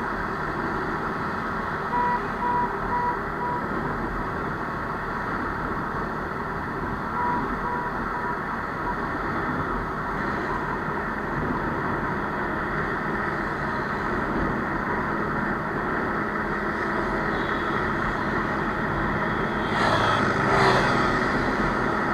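Steady vehicle and engine noise as motorbikes and cars move off, with a short beeping tone repeating on and off during the first several seconds and a brief louder burst near the end.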